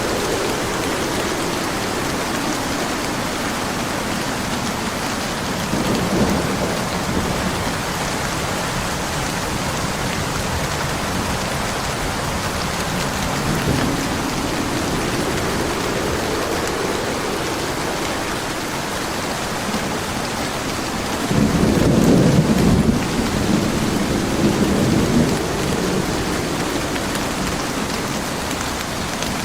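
Steady heavy rain with rolls of thunder: a low rumble about six seconds in, a softer one near the middle, and the loudest roll from about 21 to 26 seconds in.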